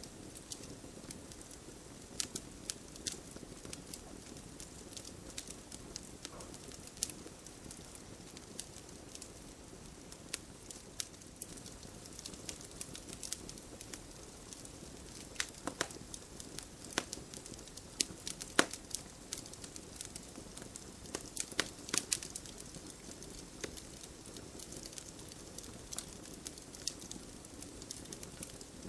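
Wood campfire burning, with a steady low hiss under irregular sharp crackles and pops.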